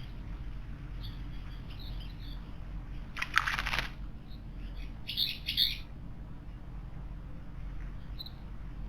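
Wild birds calling: faint thin high chirps, a brief loud rustling burst about three seconds in, then a louder pair of chirps a couple of seconds later and one more short call near the end.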